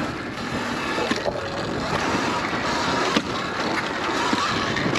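Sur-Ron electric dirt bike being ridden on a dirt track: steady rush of wind and rolling tyre and drivetrain noise, with a couple of sharp knocks, the loudest about three seconds in.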